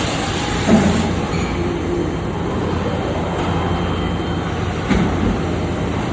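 Mori Seiki NH4000DCG horizontal machining center running, a steady mechanical hum with two short clunks, one under a second in and one about five seconds in.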